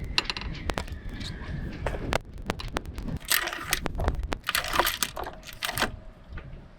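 Handling noise: a run of clicks, knocks and clatters, with two longer rustling, scraping stretches, one about three seconds in and one about four and a half seconds in.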